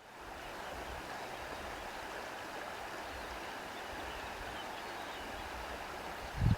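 Steady rushing of wind and lake water, with an unsteady low rumble of wind underneath and a brief low thump near the end.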